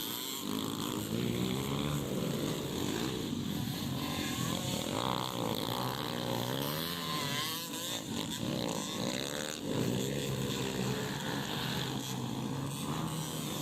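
Motorcycle engine running, its pitch rising and falling again and again as the throttle is opened and closed.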